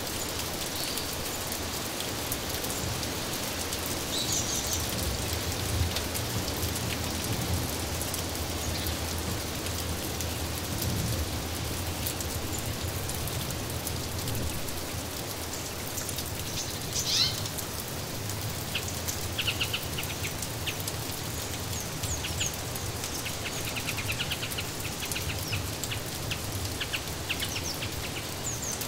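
Steady rain falling, with small birds chirping now and then over it: a short call about four seconds in, a louder descending call around the middle, and runs of quick chirps through the second half.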